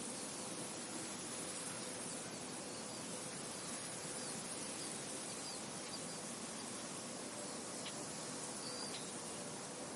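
Steady wind blowing through a field, an even rushing hiss, with a few short, faint high bird chirps now and then, more of them in the second half.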